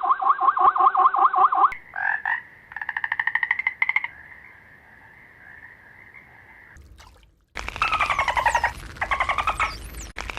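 A run of short animal calls. First comes a fast, evenly pulsed trill, then a quicker, higher pulsed call, then a faint steady high tone. After a short pause, pulsed calls with high falling chirps start about seven and a half seconds in.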